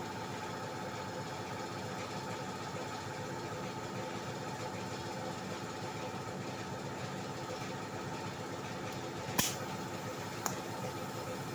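Steady machine hum in a body-repair paint shop, with two brief sharp hissing clicks about nine and ten and a half seconds in.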